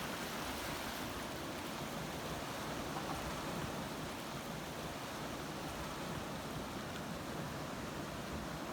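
Steady wash of ocean surf, waves breaking in an even, continuous rush.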